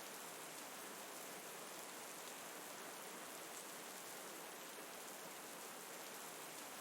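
Steady, gentle rain falling, a soft even hiss that does not change.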